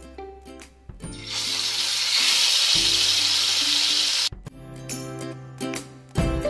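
Marinated chicken sizzling as it goes into hot ghee in a kadhai: a loud, even hiss starts about a second in and cuts off suddenly about three seconds later, over background music.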